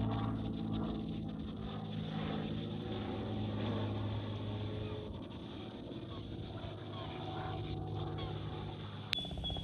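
Aircraft engine drone with a steady low hum that slowly fades, some of its tones sliding slightly down in pitch as it passes. A sharp click near the end.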